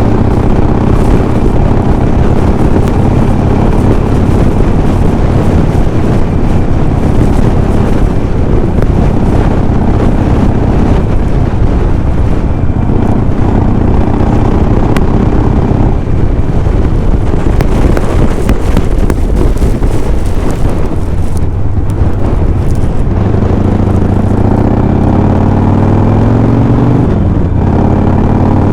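Harley-Davidson Sportster V-twin engine running at highway speed, with strong sandstorm wind buffeting the microphone. Near the end the engine note climbs and then drops sharply.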